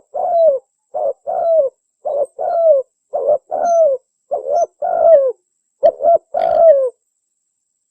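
Spotted dove (tekukur) cooing: about six phrases, each a short note followed by a longer, falling coo, about one a second.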